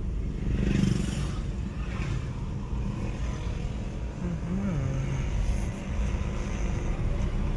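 Hyundai i20 car on a trial drive: steady engine and road noise, with no suspension knocking to be heard, the suspension noise having been cured.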